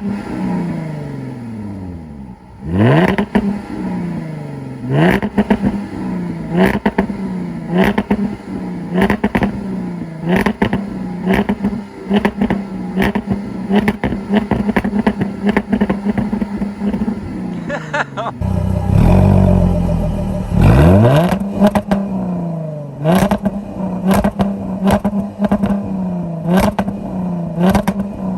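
Jaguar F-Type's supercharged 3.0-litre V6 exhaust under hard throttle, its pitch climbing and dropping again and again, with many sharp cracks and pops between. A burst of heavy low rumble comes a little over two-thirds of the way through.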